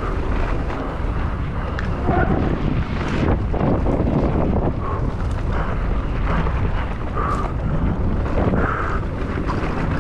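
Wind buffeting the microphone with tyre rumble and rattling knocks from a mountain bike descending at speed.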